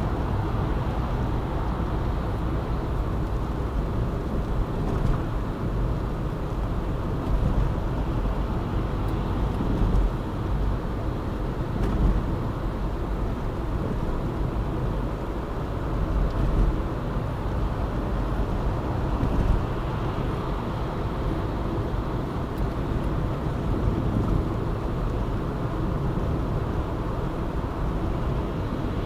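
Car driving at a steady pace: a continuous rumble of engine and tyre noise on the road, rising and falling slightly now and then.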